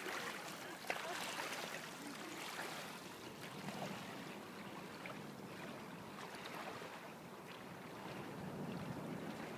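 Floodwater sloshing and splashing as a bicycle is ridden through deep water on a flooded road, with a sharp click about a second in.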